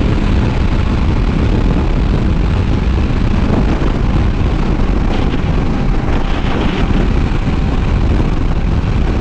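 Heavy wind rush on the microphone of a sport motorcycle ridden at speed, with the engine running steadily underneath.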